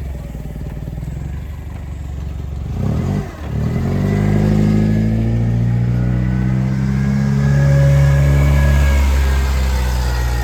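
A vehicle engine running steadily, then, about three seconds in, pulling away under load: its note rises slowly in pitch and loudness and eases off near the end.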